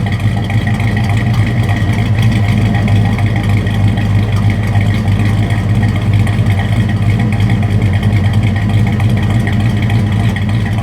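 A 1968 Dodge Charger's 383 V8 running steadily through 2 1/2-inch true dual exhaust with Jones Full Boar single-chamber mufflers, a loud low rumble held at one constant speed with no revving.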